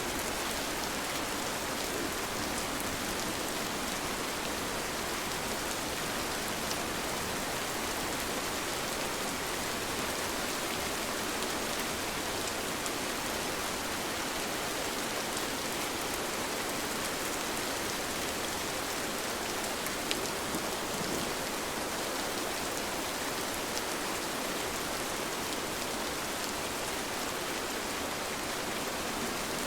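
Steady rain falling, an even hiss with scattered drop ticks and one slightly sharper drop tick about twenty seconds in.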